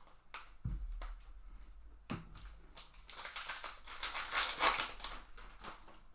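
Trading cards and a foil pack wrapper being handled: a few light clicks and two soft knocks, then about three seconds of wrapper crinkling from about three seconds in.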